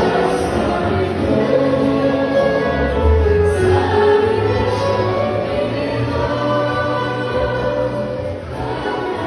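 A choir singing in harmony, holding long notes.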